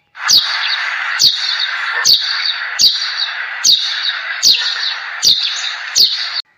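A bird's short falling chirp, repeated eight times at an even pace of about one every 0.8 s, each with a sharp click at its start, over a steady hiss.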